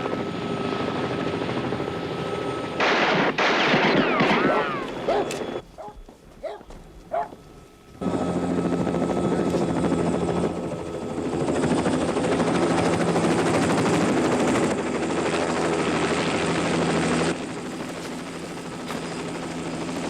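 Helicopter engine and rotor running as a steady drone. Near the start there is a louder stretch with gliding tones, then a much quieter gap with a few short sounds, before the drone returns about eight seconds in. It drops in level near the end.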